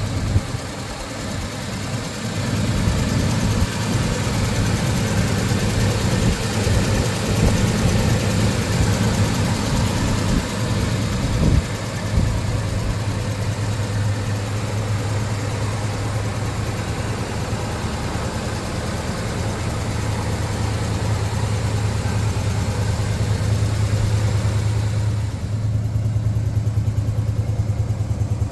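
1968 Plymouth Road Runner's 383 V8 running with a steady low note. It is a little uneven over the first dozen seconds, then even, and it sounds duller near the end.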